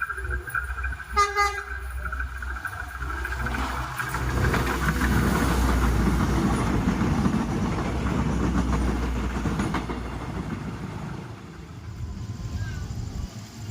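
Train passing over a railway level crossing: a short horn toot about a second in, then the rumble and clatter of the wheels on the rails builds about four seconds in and eases off near the end.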